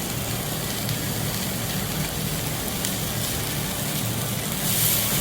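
Meat sizzling on a yakiniku grill: a steady crackling hiss over a low steady hum, the hiss growing louder near the end.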